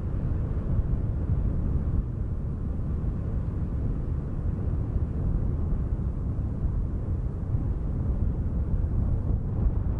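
Steady wind noise, mostly low in pitch, with no separate events.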